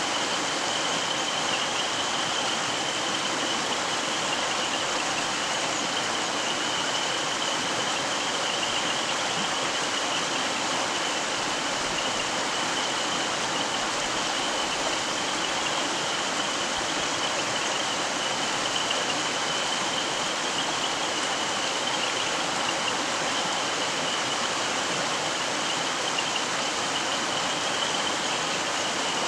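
Mountain stream running over rocks: a steady, even rush of water, with a thin high-pitched tone held unchanging underneath.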